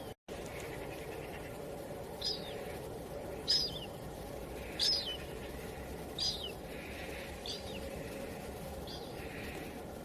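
A bird repeating a short, high call that falls in pitch, six times about every second and a half, over a steady wind-like hiss. The sound drops out completely for a moment at the very start.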